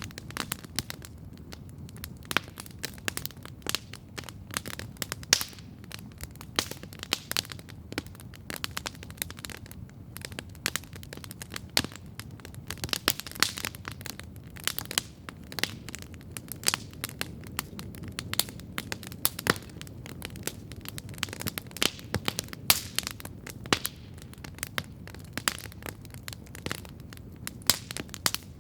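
Wood campfire crackling steadily, with many irregular sharp pops and snaps over a soft, steady low rush.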